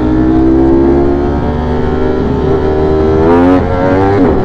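V4 sport motorcycle engine pulling under throttle, its pitch climbing steadily, with a quick drop and rise in pitch about three and a half seconds in, like a gear change. Wind rush underneath.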